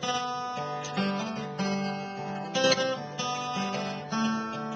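Acoustic guitar strummed in a steady rhythm, with a bass line walking under the chords, played as a song's instrumental introduction.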